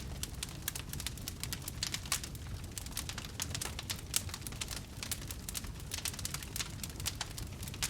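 Wood fire crackling: many irregular pops and snaps, several a second, over a steady low rumble.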